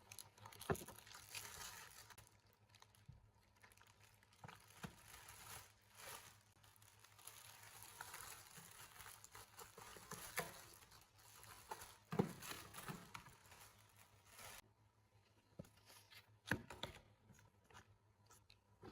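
Quiet rustling and crinkling, as of something being handled or unwrapped, with a few soft knocks.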